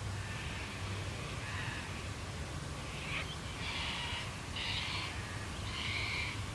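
A crow cawing in the bush: faint calls early, then three louder harsh caws in the second half, over a steady low background rumble.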